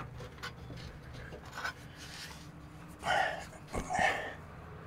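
Faint small clicks and rubbing of tools or parts, then two short breathy exhalations from a person, like panting with effort, about three and four seconds in.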